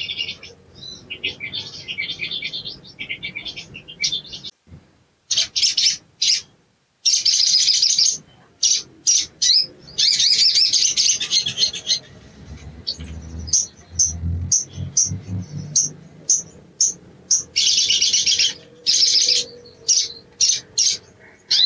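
Sogon (sogok ontong) songbird calling: bursts of rapid, high chattering trills broken by runs of sharp, separate chirps.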